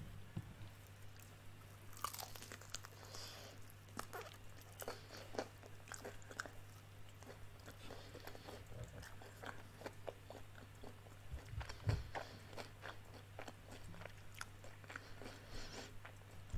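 Close-up crunching and chewing of crispy fried chicken wings: repeated bites crackling through the fried coating.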